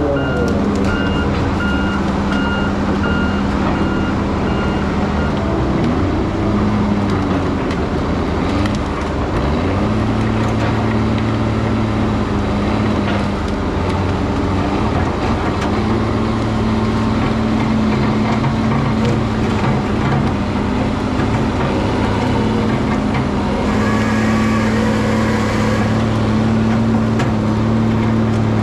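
Heavy diesel equipment engine running steadily, its pitch dipping and recovering under load a few times. A backup alarm beeps evenly for the first five seconds or so, and a short burst of hiss comes about 24 seconds in.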